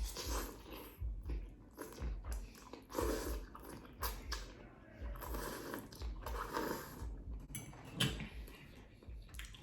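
Close-miked chewing and wet mouth sounds of eating shrimp scampi with fettuccine, short smacks coming about once a second.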